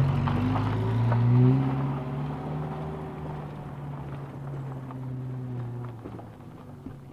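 Car engine running with a steady low hum, growing steadily fainter.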